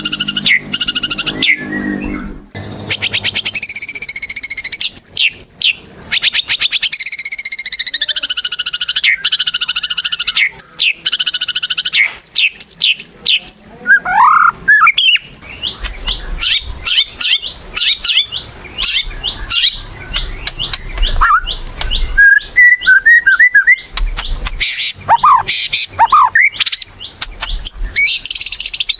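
White-rumped shama singing a loud, varied song without pause. It mixes clear whistles, fast rattling trills and quick sweeps up and down in pitch.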